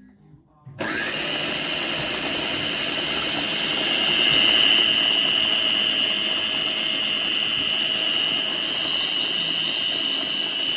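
Blender motor of an EVLA'S baby food steamer-blender starting about a second in and running steadily with a high whine, blending food.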